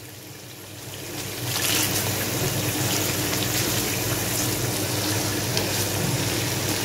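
Chicken tikka pieces sizzling in a wok as they are stirred with a silicone spatula; the sizzle grows louder about a second and a half in and then holds steady.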